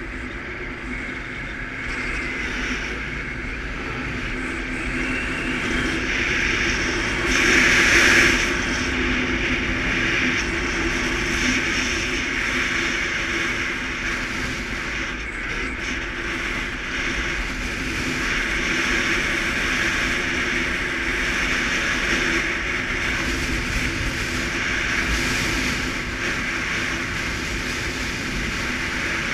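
Suzuki KingQuad ATV running steadily under way, with wind and road noise over the engine. There is a brief louder surge of noise about eight seconds in.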